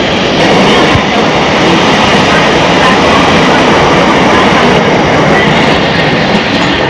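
A train running close by: a loud, steady rushing rumble that grows a little louder about half a second in.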